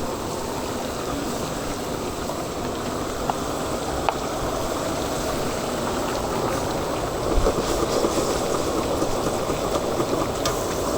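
Woks of chicken cooking at a street-food stall, giving a steady hiss, with a couple of faint clicks.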